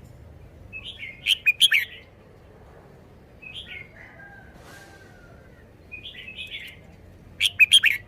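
A red-whiskered bulbul singing short, quick phrases. The loudest come about a second in and again near the end, with a fainter phrase in between.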